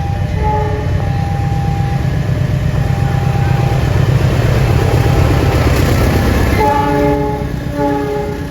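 Train passing a level crossing at high speed, with heavy rumble and rail noise from the wheels and cars. Near the end it sounds two short chords on the horn as the rumble drops away.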